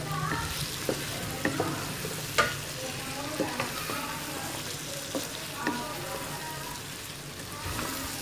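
Chicken masala frying in a non-stick wok with a steady sizzle, while a wooden spatula stirs in freshly added round gourd (tinda) pieces, knocking and scraping against the pan now and then. The loudest knock comes about two and a half seconds in.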